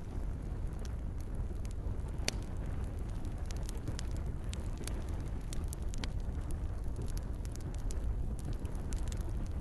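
Wood campfire crackling: frequent small sharp pops and snaps over a steady low rumble of the burning fire, with one louder pop about two seconds in.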